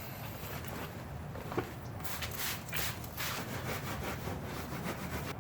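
Rubbing or scrubbing at a surface in repeated back-and-forth strokes, starting about two seconds in, after a single light click.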